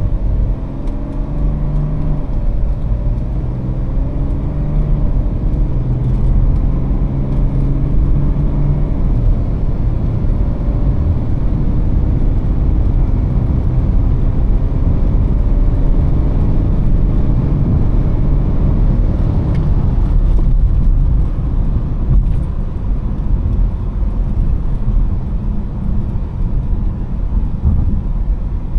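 E90 BMW 335d's twin-turbo straight-six diesel heard inside the cabin, pulling through the gears: the engine note rises and drops back at each of several automatic upshifts in the first nine seconds or so. Then it runs on at a steady cruise under constant tyre and road noise, easing off about twenty seconds in.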